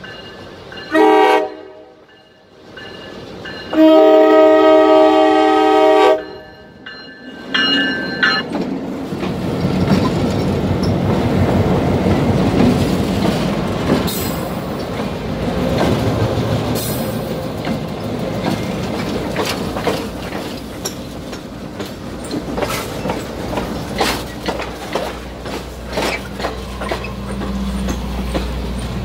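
A locomotive horn sounds three times: a short blast, a long one of about two seconds, and another short one. Then the train rolls past close by: a steady rumble with the clack of wheels over rail joints and scattered sharp clicks.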